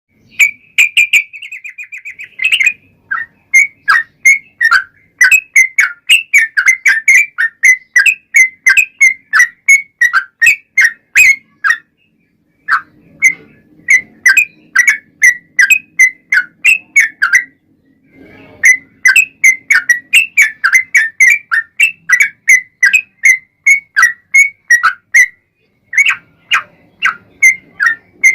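Yellow-vented bulbul (trucukan) singing: it opens with a fast trill, then gives long runs of short bubbly whistled notes, about two to three a second, broken by brief pauses.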